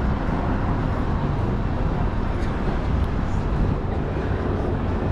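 Steady urban ambience: a continuous low rumble, like traffic, mixed with an indistinct murmur of voices.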